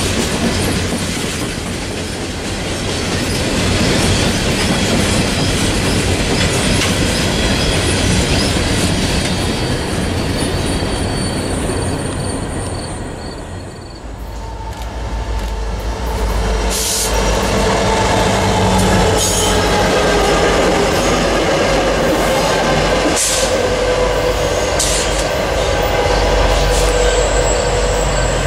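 Freight train of empty steel hopper cars rolling past close by: wheels clattering over the rail with a thin, high wheel squeal. About halfway through it fades and gives way to the low rumble of approaching diesel locomotives, with steady tones and a few sharp clicks.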